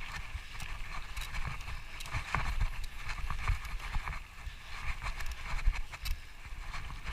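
Footsteps and rustling of a hiker moving through brush on a rough trail: irregular crackles and clicks over a low, uneven rumble of wind or handling on the microphone.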